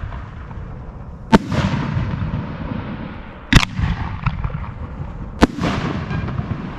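1.3G display fireworks bursting in the air: three sharp bangs about two seconds apart, each trailing off in a fading rumble and crackle.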